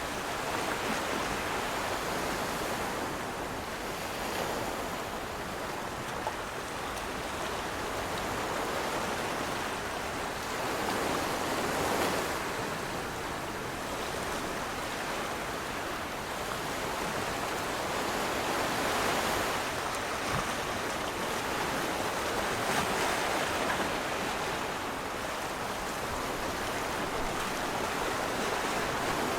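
Steady rushing noise of water, swelling and easing every several seconds.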